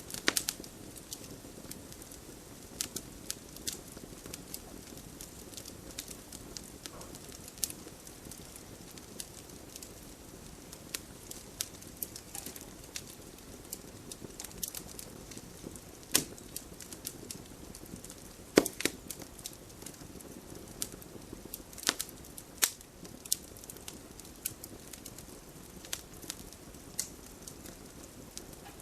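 Wood fire burning in a fireplace: a steady low hiss with irregular sharp crackles and pops, a few louder snaps standing out about midway and later on.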